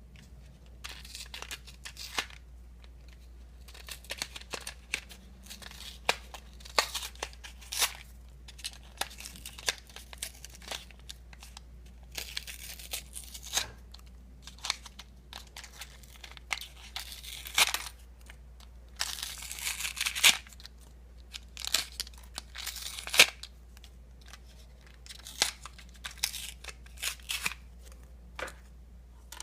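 Small packaging of model parts torn open and crinkled by hand: irregular rustles and sharp clicks, with several longer, louder tearing rushes in the middle and second half. A low steady hum runs underneath.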